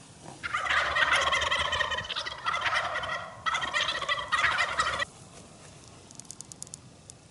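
Wild turkey gobbling loudly in two long rattling bursts, starting about half a second in, with a brief break near the middle and a sudden stop about five seconds in.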